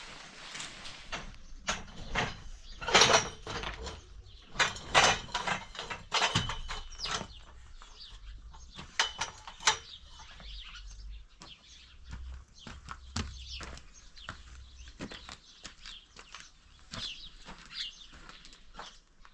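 A run of irregular sharp knocks and clacks, loudest and thickest in the first half, thinning out later, with a few short high chirps among them.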